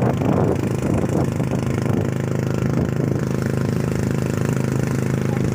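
Boat engine idling steadily at an even pitch, with gusty wind noise on the microphone over the first couple of seconds.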